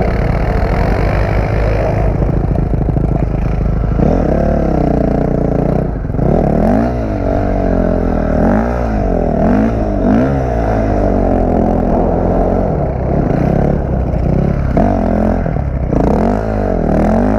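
Dirt bike engine being ridden hard, steady for the first few seconds, then revving up and falling back again and again, about once a second.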